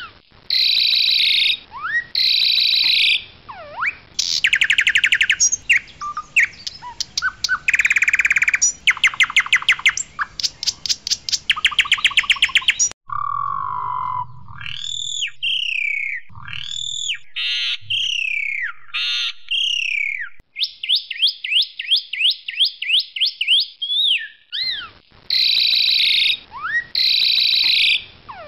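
Asian pied starling (jalak suren) singing loudly: a varied run of rapid rattling trills, sweeping up-and-down whistles and chirps. About halfway through it switches suddenly to a series of clear looping whistles, and the rattling trills come back near the end.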